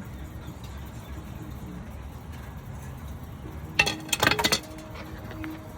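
A quick run of several sharp metallic clinks about four seconds in, from steel-backed brake pads and caliper hardware being knocked loose and handled.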